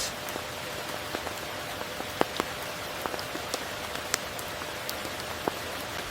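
Steady rain falling, with many individual drops ticking sharply close by, a few of them louder.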